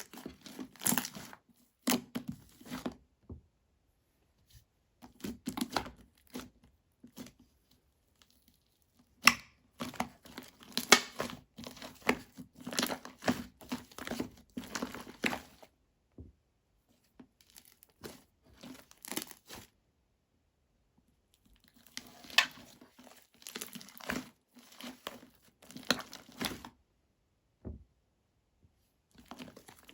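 Slime with modelling clay mixed in being squeezed and stretched by hand, giving sticky crackles and small pops. It comes in several bouts of a few seconds each, with silent gaps between them.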